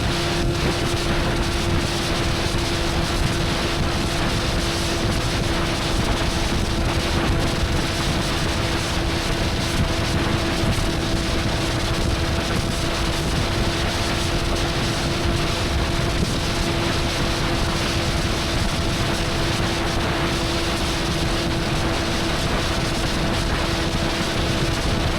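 Motorcycle engine running at a steady speed while cruising, its pitch holding constant, under heavy wind rush on the microphone.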